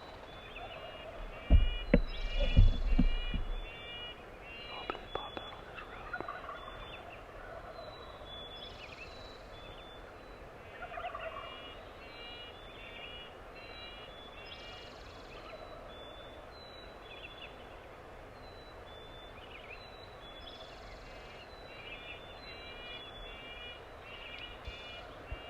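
Wild turkey gobbling, mixed with other birds calling. A few loud thumps come early, about two seconds in.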